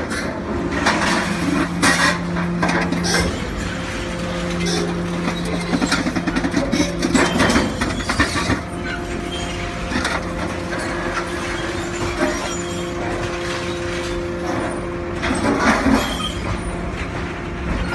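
Hydraulic alligator shear running: the steady hum of its power unit, with frequent irregular metallic clanks and knocks.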